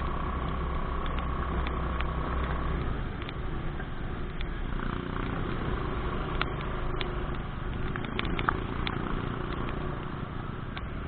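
Motorcycle engine running under way with road and wind noise. The steady low engine note fades after about three seconds, leaving a rushing noise, with scattered sharp ticks throughout.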